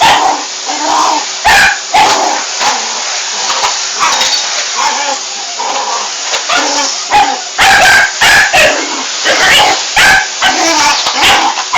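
Dog barking repeatedly at a running vacuum cleaner. The barks come in short bursts over the cleaner's steady noise, with a quick run of them about two-thirds of the way through.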